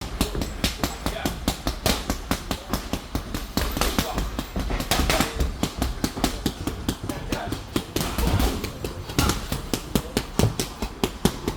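Punches landing in quick succession on padded boxing training gear, several sharp smacks a second in an irregular rhythm.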